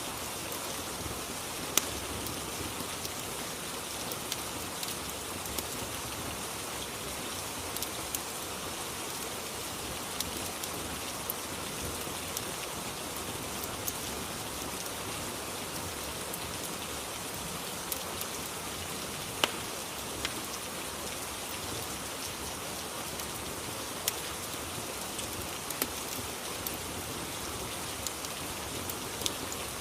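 Steady rain ambience, a continuous even hiss of rainfall, with occasional sharp clicks scattered through it.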